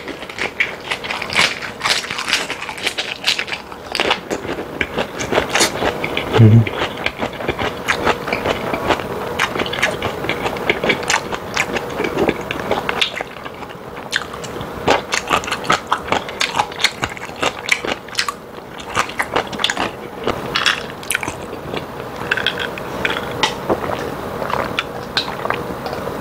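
Close-miked chewing of a lettuce wrap of spicy boneless chicken feet: crisp lettuce crunching and wet, chewy mouth sounds in a dense, irregular stream. A short low hum of the voice comes about six and a half seconds in, and later there is a bite of pickled radish.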